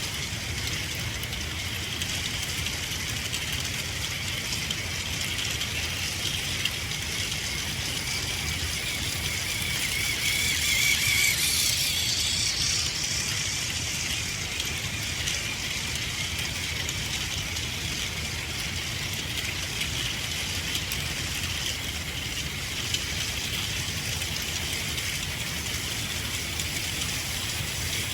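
Battery-powered Plarail toy train running on plastic track: a steady whine of its small motor and gears with the coaches' wheels rattling over the rails, growing louder for a few seconds near the middle.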